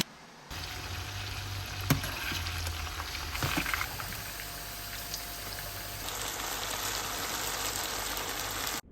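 Hot oil sizzling steadily as food deep-fries, starting about half a second in, with a couple of sharp clicks or pops.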